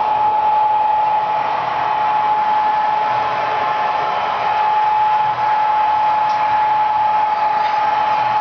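HO-scale Athearn SD40-T model diesel locomotive running steadily on the layout, a constant whine over an even hiss.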